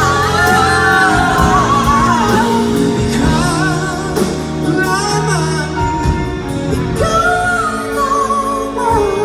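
Live pop ballad: a singer's voice glides through long held notes over instrumental accompaniment.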